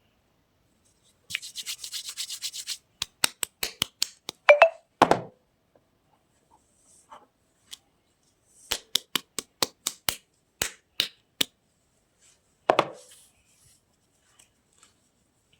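Hands unboxing soap: a short rustle, then two runs of sharp taps or clicks on the packaging, each run ending in a heavier thud.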